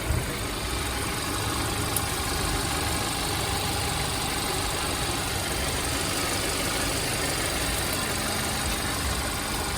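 2012 Hyundai Sonata's engine idling steadily after a fresh oil change, with one short thump right at the start.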